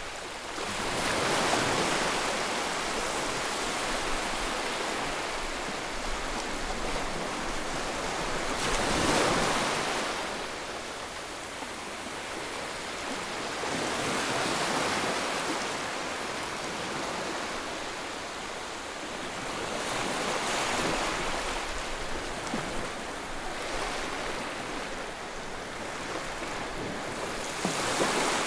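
Ocean waves breaking and washing on a shore, a continuous surf hiss that swells with each wave about every six seconds.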